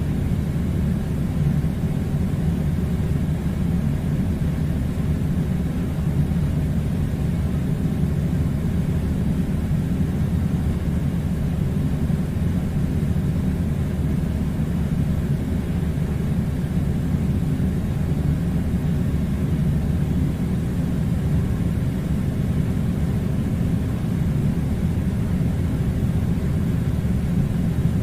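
Air conditioner running with a steady, unchanging low rumble and hum.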